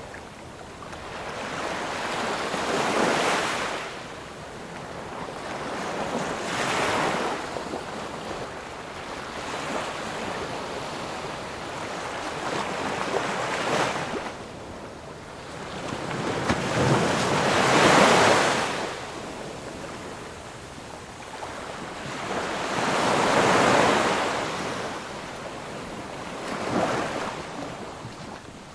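Ocean waves breaking and washing ashore one after another, each surge of hiss swelling and falling away, about six in all, with the loudest about two-thirds of the way through.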